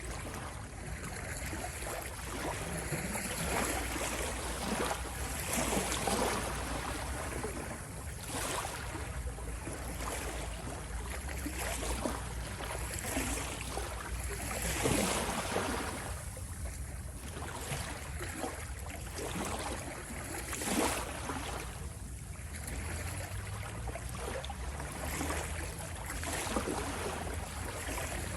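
Ocean waves washing in, a rushing noise that swells and falls back every few seconds over a steady low rumble.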